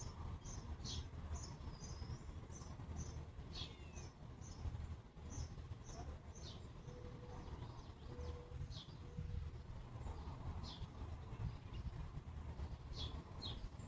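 Wild birds chirping outdoors: many short, high chirps scattered throughout, over a steady low rumble.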